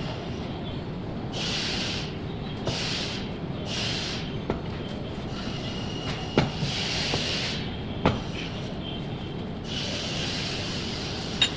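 Electric arc welding on a bolt: about five short bursts of crackling arc hiss, a second or so each, over a steady workshop background, with a few sharp metal knocks between them.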